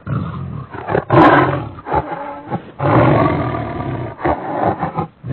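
A big cat, a lion or tiger, roaring in a series of rough roars and growls, the loudest just after a second in and again about three seconds in.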